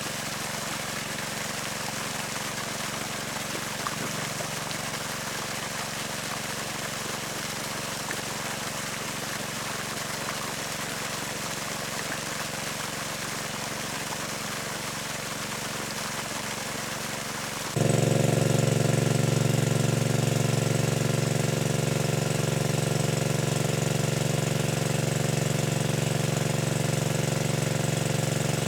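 A small engine running steadily. About eighteen seconds in it suddenly gets much louder and keeps running with a fast, even pulse.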